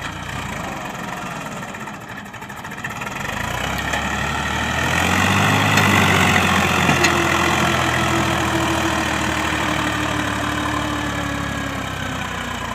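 Sonalika 740 tractor's diesel engine running, its note rising to its loudest about five to seven seconds in as it works harder, then slowly easing off with the pitch sinking a little.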